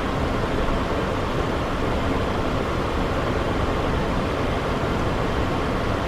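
Steady rushing cabin noise in the cockpit of a Cessna Citation XLS business jet in its climb: airflow past the fuselage blended with the turbofan engines.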